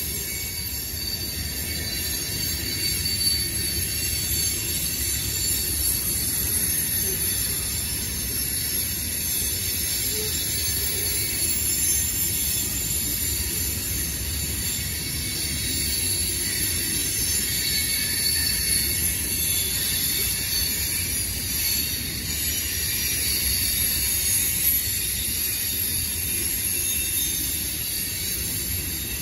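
Freight cars of a manifest train rolling past: steady wheel-on-rail rumble with high-pitched wheel squeal.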